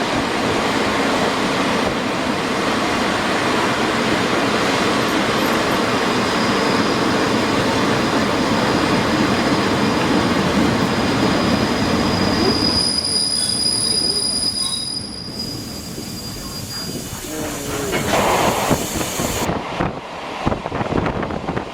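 Passenger train running at speed, heard from aboard a coach: a dense rumble of wheels on rail. A thin high wheel squeal stands out from about halfway through for a few seconds, and then the running noise drops to a quieter, more uneven level.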